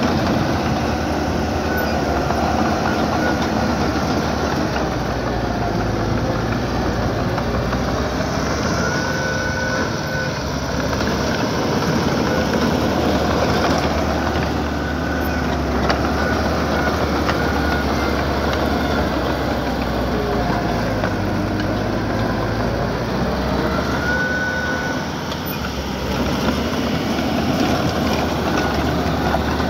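Small crawler bulldozer working: its diesel engine runs steadily under load while the steel tracks clank and rattle, with short squeals every few seconds.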